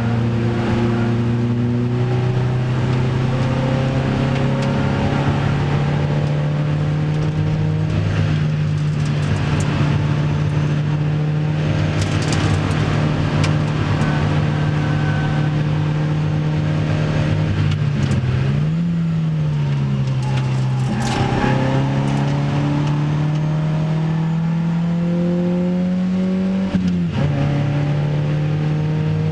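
Opel Speedster's 2.2-litre four-cylinder engine heard from inside the cabin, pulling hard at speed. Its pitch climbs steadily and shifts abruptly a few times with gear changes.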